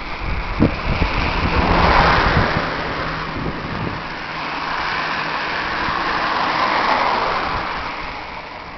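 Ducati ST2 motorcycle engine running steadily with a low hum, under a broad rushing noise that swells up twice, about two and about seven seconds in.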